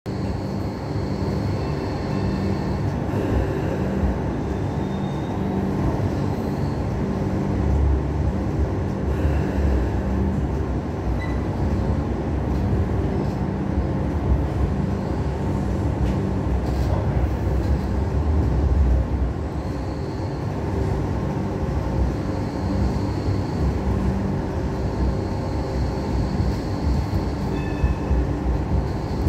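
Hong Kong Light Rail two-car train running, a steady low rumble with a faint high-pitched whine that comes and goes.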